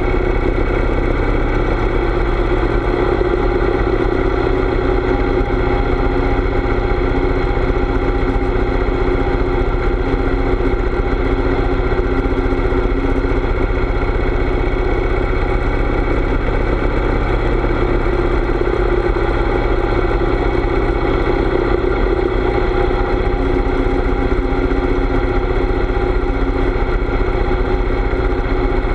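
Harley-Davidson V-twin motorcycle engine running steadily at an even pitch.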